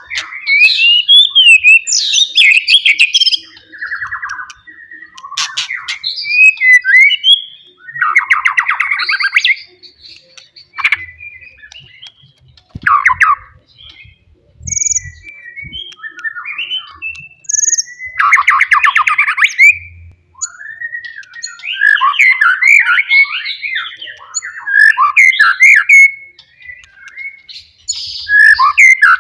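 A white-rumped shama singing loudly in varied phrases of clear whistled glides, chattering notes and rapid buzzy trills, with short pauses between the phrases.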